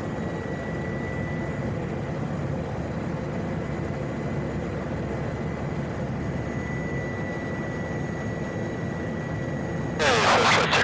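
PAC 750XL's turboprop engine running steadily with a thin high whine while the aircraft is on the ground before takeoff. Near the end a much louder sound with wavering pitches cuts in suddenly.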